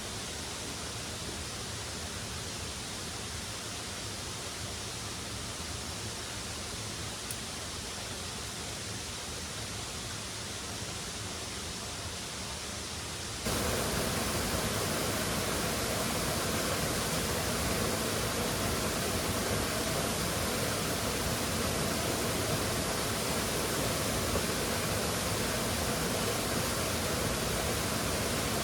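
Steady rushing of a waterfall, which jumps abruptly louder and fuller about halfway through, then holds steady.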